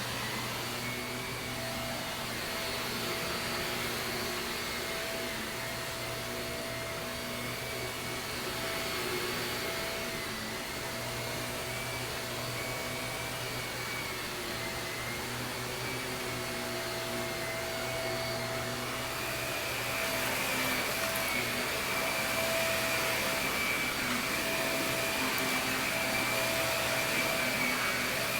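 Shark vacuum cleaner running steadily over carpet: a constant motor hum with a high whine over airy hiss. It gets somewhat louder and brighter about two-thirds of the way through.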